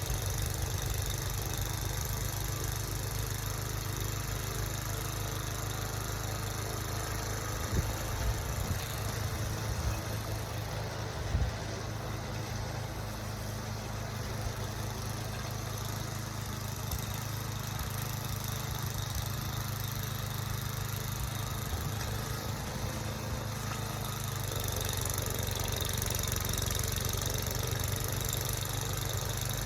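An engine running steadily at a constant speed, with a couple of short knocks about eight and eleven seconds in.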